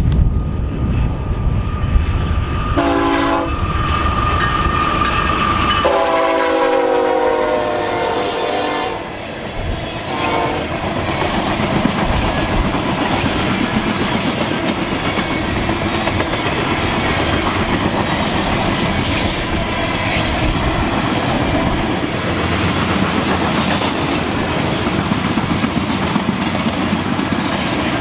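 Freight locomotive's multi-note air horn sounding at a grade crossing: a short blast about three seconds in, a longer blast about six seconds in and a brief tail near ten seconds. After that, the train's cars roll past with steady clickety-clack of wheels on the rails.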